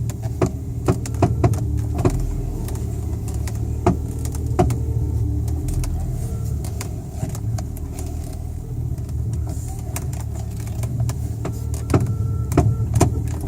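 BMW steering rack clicking as the steering wheel is turned toward full lock, sharp clicks coming in irregular clusters over a steady engine hum. The clicking comes from a slightly loose passenger-side steering rack mounting bolt.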